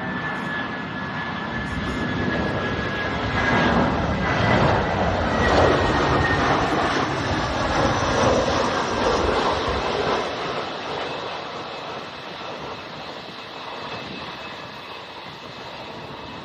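Airbus A320 airliner landing: its twin jet engines' rush swells to a peak a few seconds in and then fades, with a thin high whine that falls slightly in pitch as it goes by.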